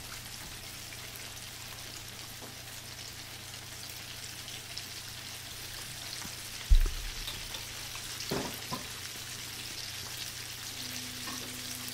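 Batter-coated chicken nuggets frying in hot oil in a kadhai on a medium flame, a steady crackling sizzle. About two-thirds of the way through there is one dull thump, followed by a click shortly after.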